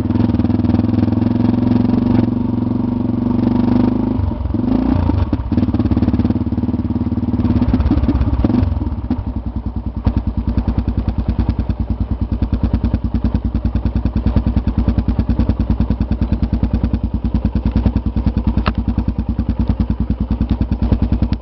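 Motorcycle engine running while riding, then dropping about nine seconds in to a steady, evenly pulsing idle.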